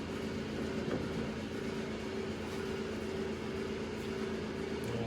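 Steady mechanical hum from a running machine, with a low even drone and a couple of held tones.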